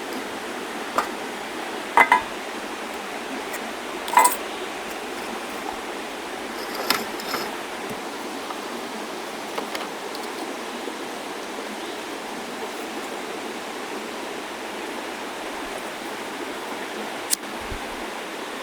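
Steady rushing outdoor noise, like flowing water, with a few short sharp clicks and knocks, the loudest about two seconds in and again about four seconds in.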